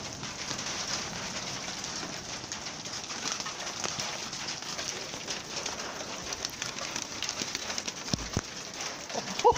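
Rain mixed with hail falling hard, a steady dense pattering of many small hits. There is a short low thud near the end.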